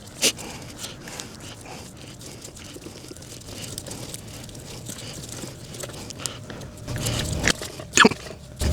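Scattered clicks and light knocks of tools and parts being handled, with a low rumble and a sharper click near the end.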